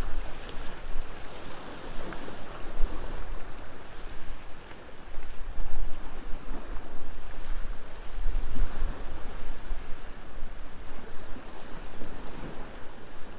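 Ocean waves washing onto the shore in slow swells, with wind rumbling on the microphone and a bonfire crackling faintly.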